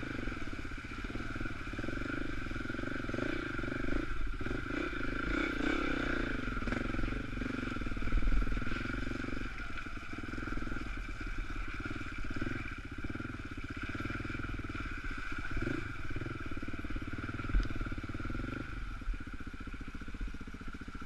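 Off-road dirt bike engine running steadily while riding along, with a couple of brief knocks partway through.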